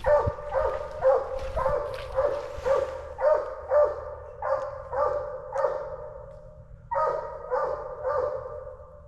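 A coonhound barking steadily, about two ringing barks a second. After a pause of about a second it gives three more.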